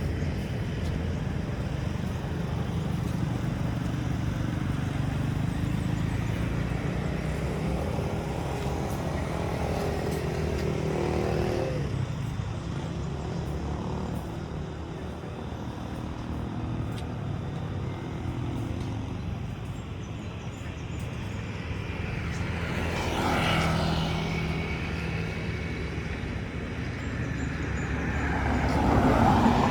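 Motor vehicle engines running close by, with vehicles passing about halfway through and twice more near the end.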